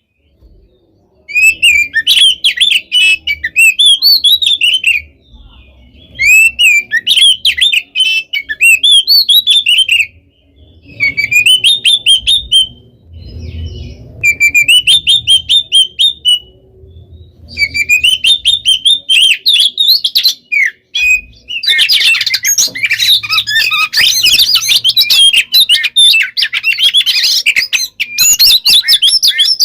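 Oriental magpie-robin (kacer) singing busily: rapid runs of whistled and chattering notes in phrases of a few seconds with short pauses between them. From about 22 seconds in, the song becomes denser and runs on without a break.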